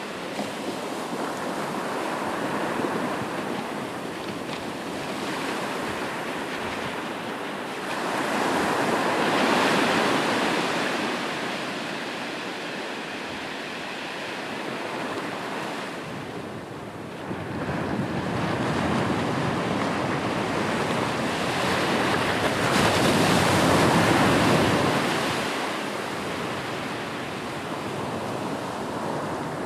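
Ocean waves breaking and washing on a shore, a continuous surf with two larger waves swelling in and receding, about ten seconds in and again near the end.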